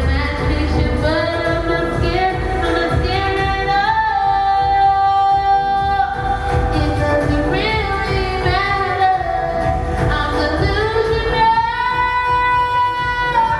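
Singer holding long, gliding sung notes over an electronic pop backing track with a pulsing bass.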